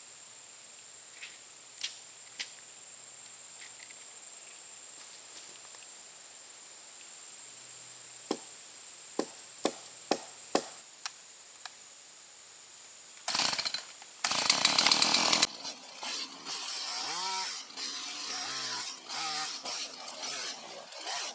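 A few sharp ticks, then a chainsaw starts about two-thirds of the way in. It runs loudly and then keeps running with a wavering pitch while bucking a felled tree into a 12-foot log.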